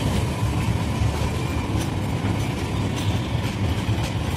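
Electric suburban local train (EMU) running past close by: a steady low rumble of wheels on rail, with a few faint clicks.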